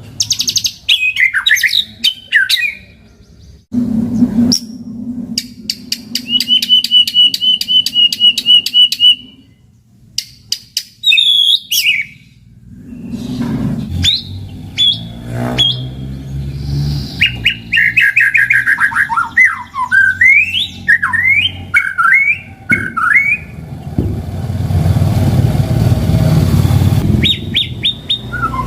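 White-rumped shama singing: a varied run of loud whistled notes that rise and fall, a fast even trill and quick chattering phrases. It is the kind of song played as a lure to set off a shama that has stopped singing. A low rumbling noise runs underneath in places, strongest near the end.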